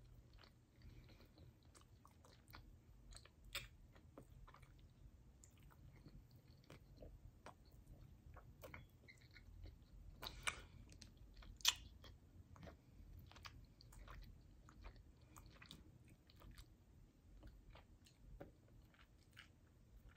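Faint chewing and wet mouth sounds of a person eating sauced chicken wings and picking the meat off the bone with her fingers. Small clicks are scattered throughout, with two sharper clicks a little past halfway.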